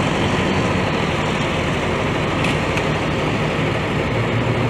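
Steady vehicle engine idling with a low hum, and two faint ticks about halfway through.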